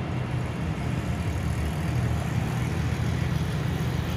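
Porsche 911's flat-six engine running steadily at low revs, a low, even drone with no revving.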